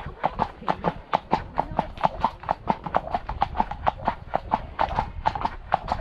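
A ridden horse's hooves clip-clopping in a quick, steady rhythm, about four to five strikes a second.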